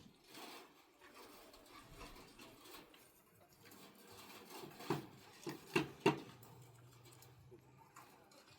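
Faint background with four sharp knocks or taps in quick succession about five to six seconds in.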